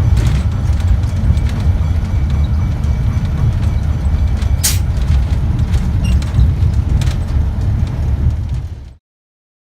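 Heavy, steady low rumble of a moving train, with one sharp clank about halfway through. The sound cuts off abruptly near the end.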